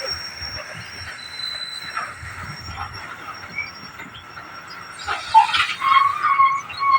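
Train wheels squealing on the rails as the train passes: several high steady tones that fade over the first few seconds. About five seconds in comes a louder rush of noise, followed by a repeating high tone near the end.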